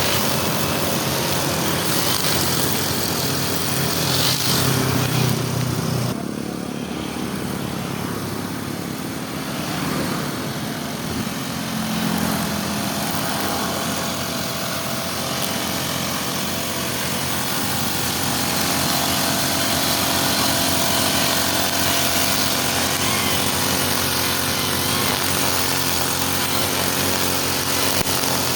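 Small engines of grass brush cutters running steadily. They get a little quieter about six seconds in and come back up to full level after about eighteen seconds.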